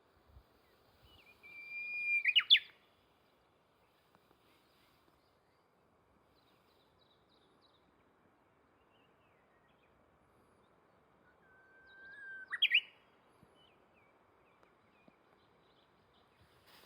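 A bird singing twice, about ten seconds apart. Each song is a long held whistle ending in a quick burst of higher notes.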